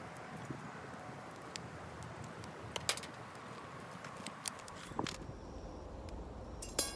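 Wood campfire crackling: a handful of sharp, irregular pops over a steady background hiss. A low rumble comes in about halfway through.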